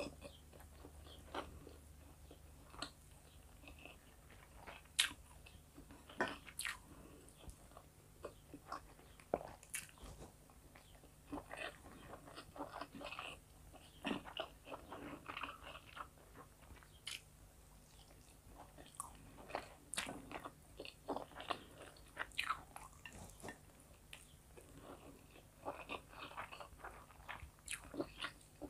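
Close-miked chewing and biting of a person eating rice and chicken fillet by hand: many short, sharp mouth clicks at irregular intervals.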